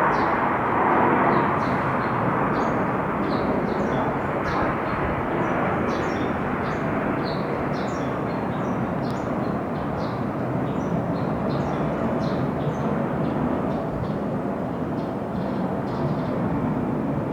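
Military jet aircraft engines at an air base running with a steady, loud rushing noise, a little louder in the first two seconds. Faint short high chirps are heard over it.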